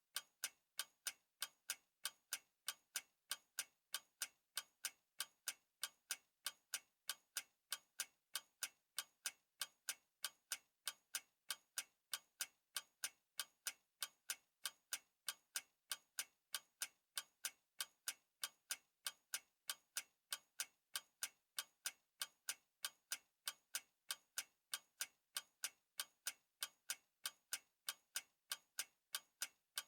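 Clock ticking: even, sharp ticks at a steady pace of a few a second.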